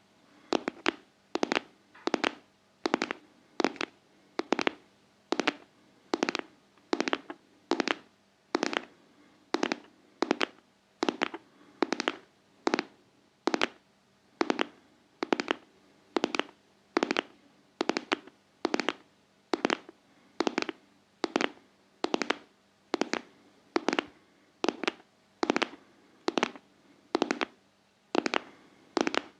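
Intense ASMR tapping: quick groups of two or three sharp taps repeating steadily a little more than once a second, in an even heartbeat-like pulse.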